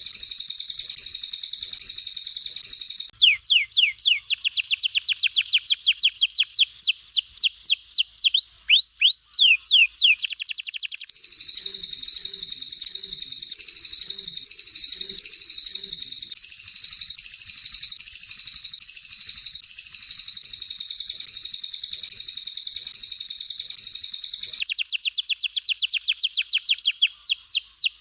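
Recorded songbird song of canary and cililin, played back in alternation. A dense, continuous high-pitched trilling warble gives way twice to a run of rapid downward-sweeping whistled notes, several a second: once about three seconds in, lasting several seconds, and again near the end.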